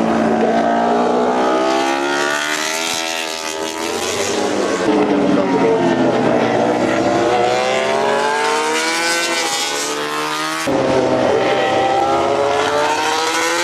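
MotoGP racing motorcycles' four-stroke engines revving up and dropping back through the gears, several engines heard at once as the bikes pass. The sound changes abruptly about eleven seconds in, like a cut to another stretch of track.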